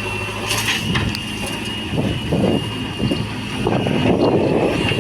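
JCB 3DX backhoe loader's diesel engine running steadily with a high hydraulic whine, while the bucket works mud: a few sharp knocks early, then two rushes of scraping and falling soil around the middle and near the end.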